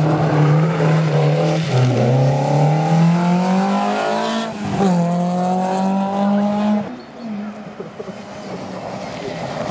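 Rally car engine accelerating hard, its pitch climbing through each gear with two upshifts about three seconds apart, then dropping away as the car goes past.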